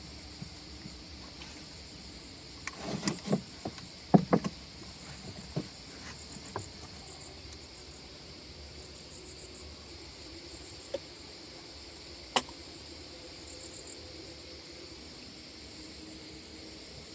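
Insects chirping steadily in short repeated trills. A quick run of sharp knocks and taps about three to four and a half seconds in, with a few single clicks later.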